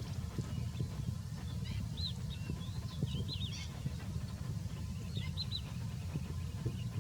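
Small birds chirping: short, high, arched notes in quick clusters, a run of them a couple of seconds in and another few near the end, over a steady low rumble.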